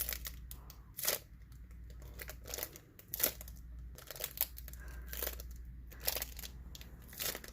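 Hands handling and squeezing a small homemade foam squishy toy, giving scattered soft crinkles and light clicks every second or so, over a low steady hum.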